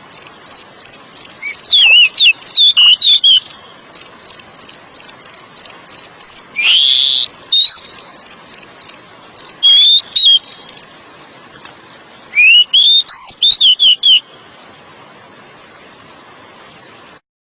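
Oriental magpie-robin (kacer) singing: slurred, rising and falling whistled phrases mixed with rapid, evenly spaced high chips that run about five a second, like a cricket's trill. The song stops about fourteen seconds in, leaving faint hiss, and the sound cuts off just before the end.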